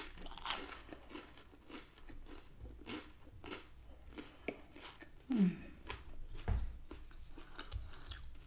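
Close-up chewing of crisp garlic bread: irregular crunches and wet mouth sounds, with a brief 'mm' about five seconds in.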